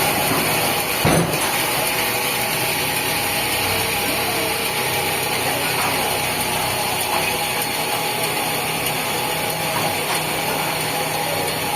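Sawmill machinery running steadily, with one sharp knock about a second in.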